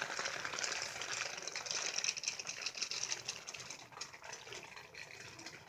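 Water running or gushing, a dense splashing hiss that is loudest in the first half and fades toward the end.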